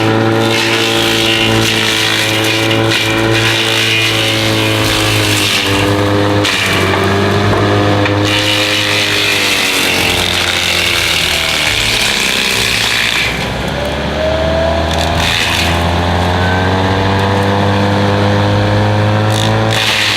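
Takeuchi TB260 mini-excavator running a DENIS CIMAF DAH-065B hydraulic mulcher head: a steady engine-and-rotor whine. Its pitch sags about six seconds in and again around thirteen seconds, then climbs back as the spinning drum takes load and recovers while it cuts into brush.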